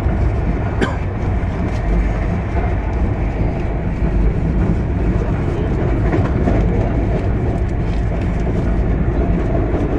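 Steady running noise of a Duronto Express passenger coach at speed, heard from inside at the window: wheels on rail with a deep rumble and the rush of air, and a sharp click about a second in.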